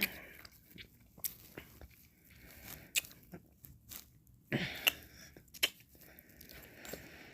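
Close-miked mouth sounds of eating ice cream: scattered wet clicks and smacks of licking and chewing, with a longer, fuller mouth sound about four and a half seconds in.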